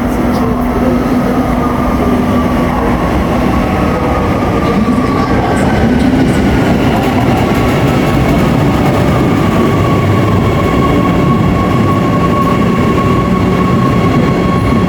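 Gautrain electric commuter train pulling into the station and slowing, a steady loud rumble of the cars with a whine that slowly falls in pitch as it brakes.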